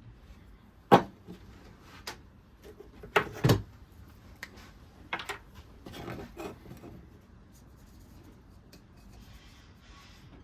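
A few irregular knocks and clunks of hard objects being handled. The loudest comes about a second in and a quick pair follows around three seconds in; a few lighter ones come after, then it goes quiet.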